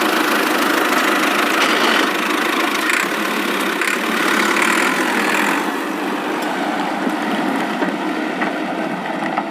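A small motor running steadily with a grinding, engine-like noise; it eases off a little about halfway through.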